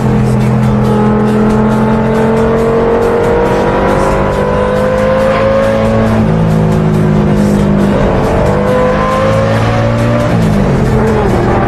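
A 5.2-litre Lamborghini V10 in an Audi wagon accelerating hard, its pitch climbing in long pulls and dropping at gear changes about eight and ten seconds in. Loud music with a steady beat plays over it.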